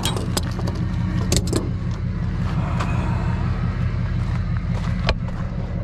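Tow truck engine idling steadily, with a few sharp clicks and knocks over it, one near the start and one about five seconds in.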